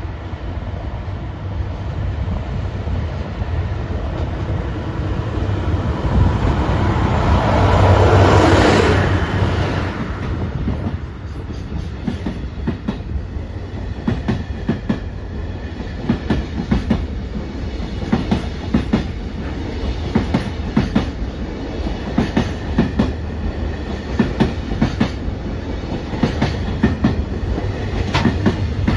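JR Freight DF200 diesel-electric locomotive passing slowly, its engine noise swelling to a peak about eight seconds in and fading. Container wagons then roll by with a steady clickety-clack of wheels over the rail joints, and the engine of a second locomotive grows louder near the end.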